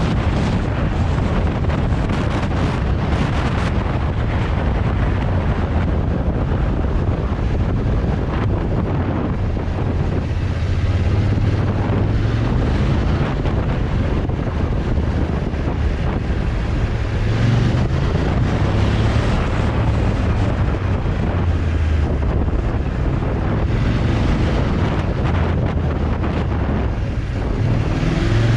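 Motorcycle engine running under way, its note rising and falling with the throttle, under heavy wind buffeting on the microphone.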